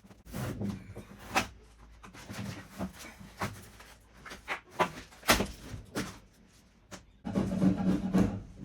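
Hand scraping and knocking at the glued paper and vinyl backing on a caravan floor: irregular sharp knocks and scrapes, with a longer rasping scrape near the end.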